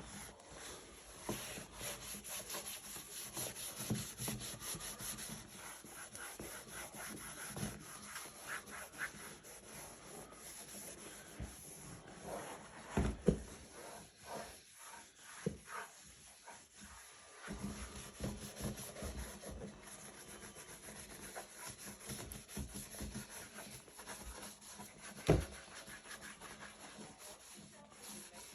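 A trim-coating wet wipe being rubbed over the plastic of a Shad motorcycle luggage case in steady rubbing strokes, with a sharper knock near the middle and another near the end.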